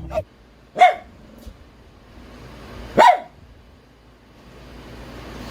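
A dog barking twice: two short single barks about two seconds apart.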